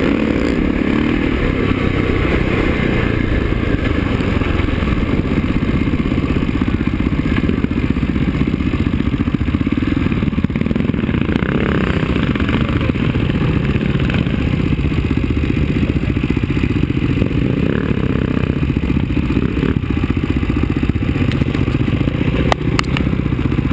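KTM enduro motorcycle's single-cylinder engine running steadily as it is ridden over dirt, then idling after about halfway as the bike pulls up. A few short clicks sound near the end.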